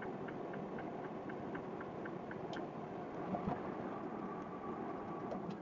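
Steady engine and road noise inside a moving semi truck's cab, with faint light ticks about four times a second.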